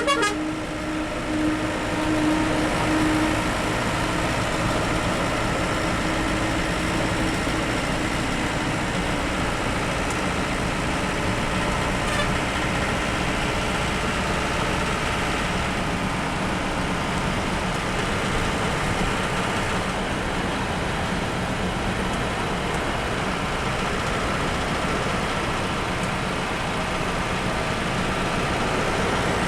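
A bus on the move: steady engine and road noise as it drives along, with a steady tone that fades out over the first few seconds.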